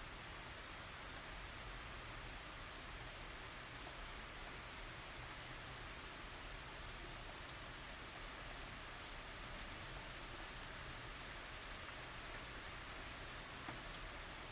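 Steady, soft tropical rain falling, an even hiss with scattered faint drop ticks.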